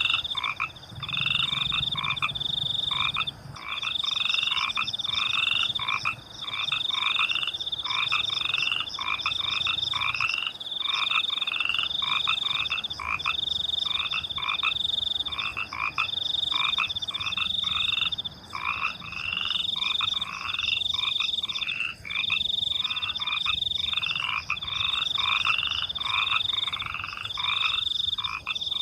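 A night chorus of frogs croaking in rapid, continuous repeated calls, over a steady high-pitched trill of crickets.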